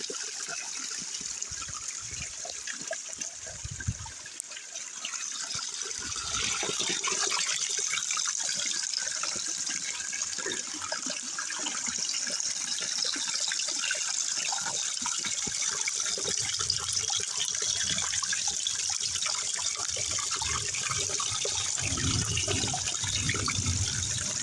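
Steady rain with water running and trickling, growing louder about six seconds in.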